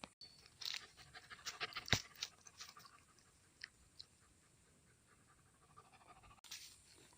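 A dog panting close by, in a quick run of short breaths with a few sharp clicks, the loudest about two seconds in; it fades after about three seconds.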